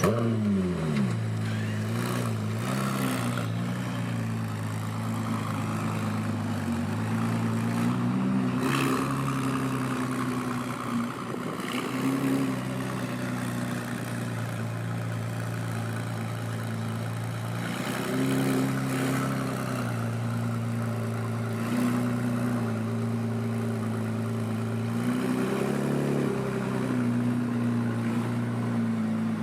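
Ferrari 296 GTB's twin-turbo V6 firing up with a flare whose pitch drops quickly, then settling into a steady idle. The pitch rises briefly a few times.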